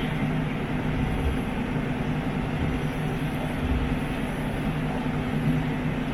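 A boat's engine running steadily, heard on board as a constant low hum under a wash of noise, with a few low thuds.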